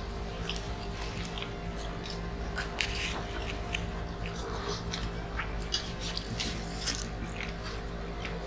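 Several people chewing and smacking their lips while eating grilled chicken and rice by hand, a run of short, scattered wet clicks.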